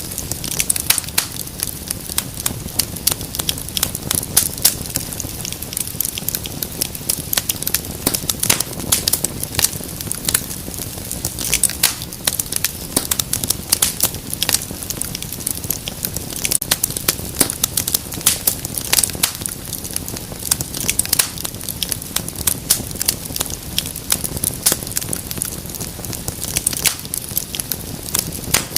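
Wood fire crackling steadily, a dense run of irregular sharp pops and snaps over a low, steady rush of flame.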